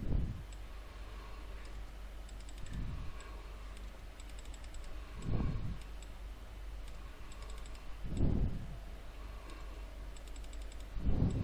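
Computer keyboard typing in short bursts of keystrokes, with a few dull low thumps, the loudest about halfway and near the end, over a steady low hum.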